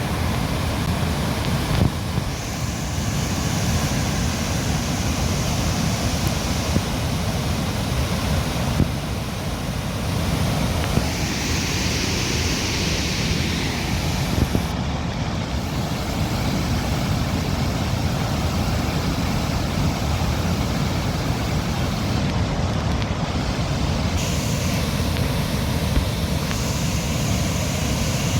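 Floodwater of the swollen Isar river rushing past, a steady, loud, even roar with a deep rumble and brief brighter stretches of hiss.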